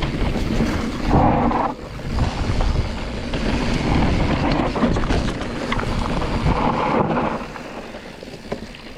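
Wind rushing over the microphone and tyre noise on loose, dry dirt as an electric mountain bike descends a trail, with rattling from the bike; it eases off somewhat near the end.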